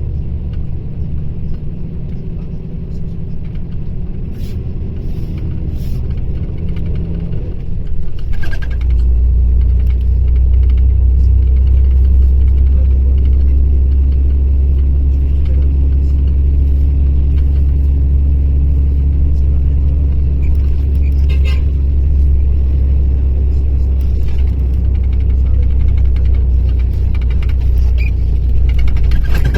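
Mercedes-Benz O-500RSD bus engine running with a deep, steady rumble that grows louder and steadier about eight seconds in.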